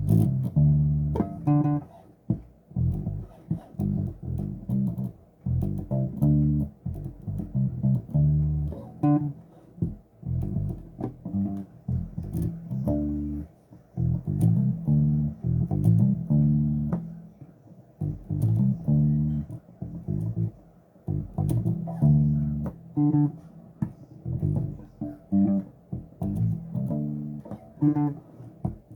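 Bass guitar played on its own: a line of plucked low notes practised in phrases, with brief stops between them, as the player tries to get the part down.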